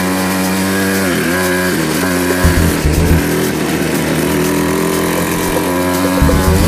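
A steady engine-like drone whose pitch dips briefly a couple of times.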